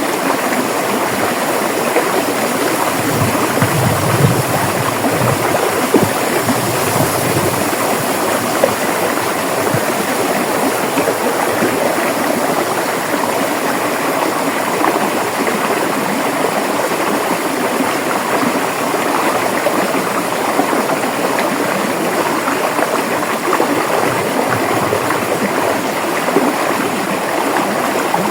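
River water rushing and flowing over rocks, a steady dense splashing babble without letup.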